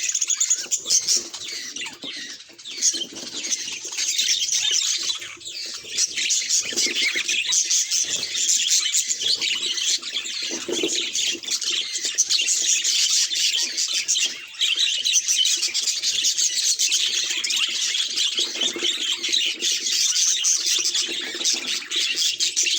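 Several budgerigars chattering and chirping at once, a dense, unbroken stream of quick high chirps and warbles.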